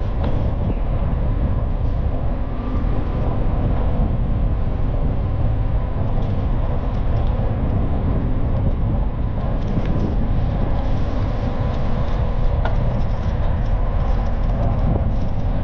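REM light-metro train running at speed: a steady low rumble with faint clicks.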